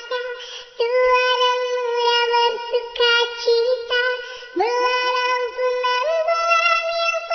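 A shalawat melody sung in a high, synthetic cartoon-cat voice: long held notes that scoop up into pitch, with short breaks between phrases.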